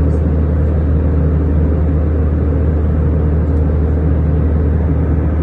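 Steady, loud, low drone of an airliner cabin in flight: engine and airflow noise heard from inside the cabin, with no change throughout.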